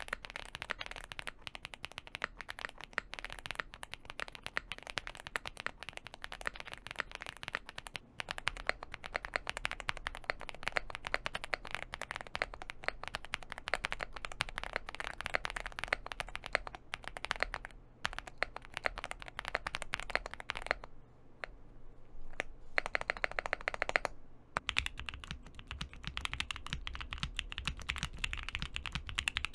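Mechanical keyboards being typed on in fast, continuous sound tests, a dense run of clacky keystrokes. The recording changes at about eight seconds and again after a short lull near the three-quarter mark, as one test gives way to the next.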